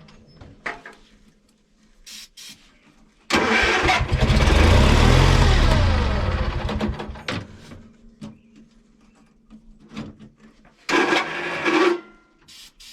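Lawn mower engine starting up after a quiet pause, running about three seconds with falling pitch and then dying away; near the end a second short burst of cranking or running. It will not keep running, and the owner suspects something is wrong with it, possibly the starter.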